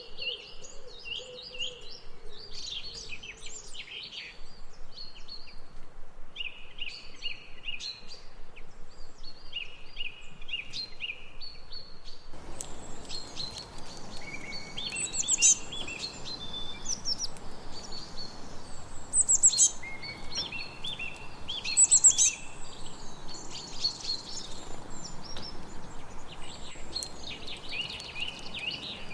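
Several birds singing and chirping together, short repeated trills and chirps overlapping, with a few louder calls in the second half. About twelve seconds in, a steady background hiss becomes louder.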